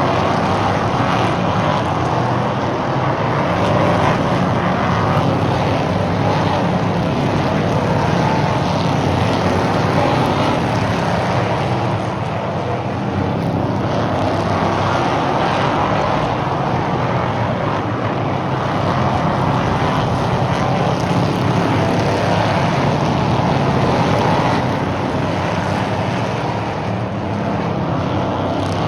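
A field of stock cars racing on a short oval track, their engines running hard in a continuous drone that swells and fades every several seconds as the pack comes around.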